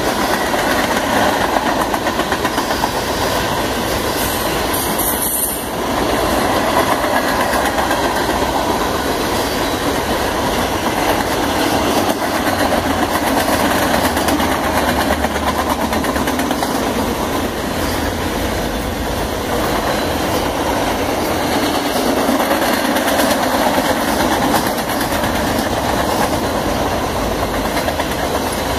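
Loaded freight-train flatcars rolling past, their steel wheels running on the rails with a steady clatter; the sound dips briefly about five seconds in.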